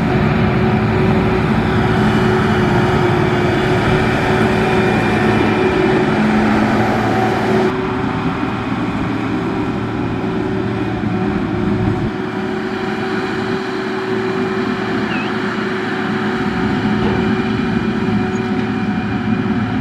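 Heavy road-construction machine's engine running steadily under load, its sound changing abruptly about eight and again about twelve seconds in.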